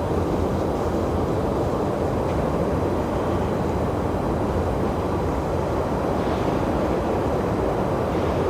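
Steady, low rushing noise of wind blowing across the camera microphone, with no breaks.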